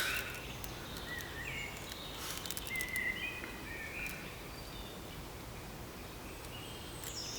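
Birds chirping and calling intermittently in short, scattered notes over a steady background hiss.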